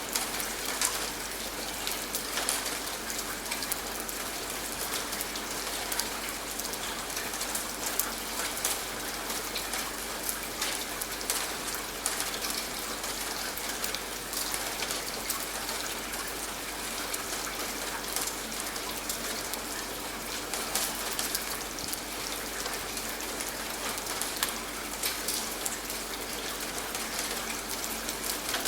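Steady rain falling on a surface, with individual drops ticking sharply through an even hiss of rain.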